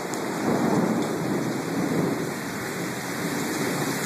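Heavy storm rain pouring down onto pavement and parked cars: a steady rushing hiss.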